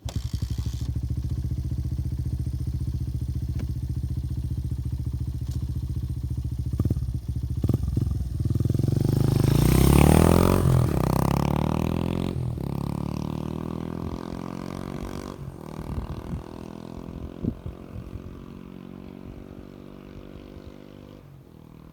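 Honda Ape 100's single-cylinder four-stroke engine breathing through a Yoshimura GP-Magnum titanium cyclone aftermarket exhaust: a steady idle for about seven seconds, then a rising engine note as the bike accelerates away, loudest about ten seconds in and fading steadily as it goes off into the distance.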